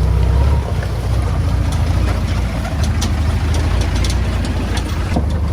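Komatsu D20A bulldozer's diesel engine running steadily under load, easing off slightly less than a second in, with scattered light clanks and knocks.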